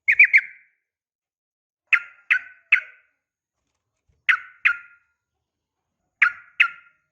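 Yellow-vented bulbul calling in four short bursts of two or three quick, clear notes, about two seconds apart. These are female calls used as a lure to make male bulbuls answer.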